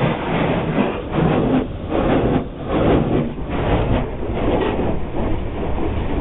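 Automatic car wash machinery running, heard from inside the van: a loud, uneven rushing that surges and dips about once a second, and that the family calls "so loud".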